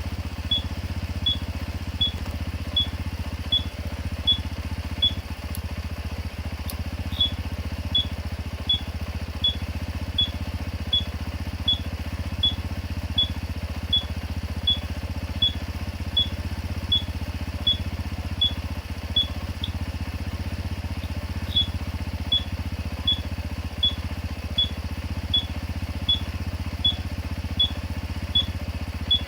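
Honda CD50's small air-cooled four-stroke single idling steadily, while an aftermarket turn-signal buzzer gives a short high-pitched beep with each flash of the blinker, about three beeps every two seconds.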